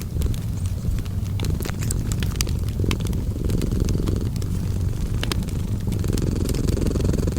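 A cat purring steadily and low, mixed with a fireplace crackling in scattered sharp pops and clicks.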